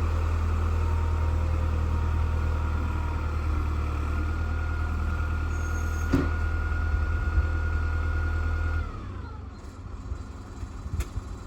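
Old tractor backhoe's engine running steadily with a low drone and a steady whine, with a sharp click about six seconds in. Near the end the drone cuts off suddenly and the whine falls away in pitch, as the engine stops.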